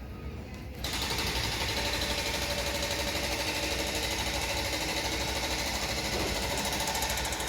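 Construction machinery starts abruptly about a second in: a rapid, steady mechanical hammering.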